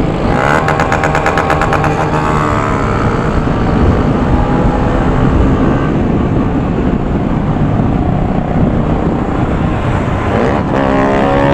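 Motorcycle engine running under load while riding, rising in pitch as it accelerates at the start and again near the end, with a fast even pulsing through the first acceleration.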